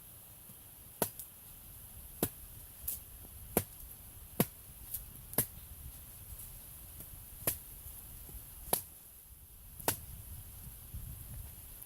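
Wood campfire crackling, with about a dozen sharp snaps and pops at uneven intervals.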